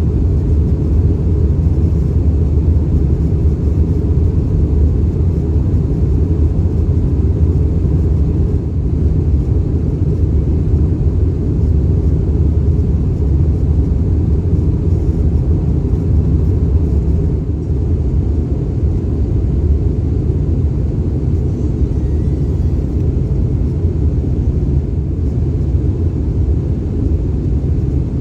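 Steady low cabin rumble inside an Airbus A319-115 airliner, the drone of its CFM56 engines and airflow, unchanging throughout.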